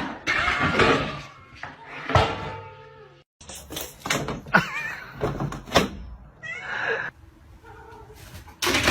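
A cat meowing, with several sharp knocks and bangs.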